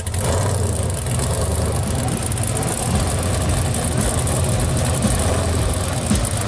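Supercharged engine of a blown 1970 Chevy Nova pro street car idling steadily as the car rolls slowly by.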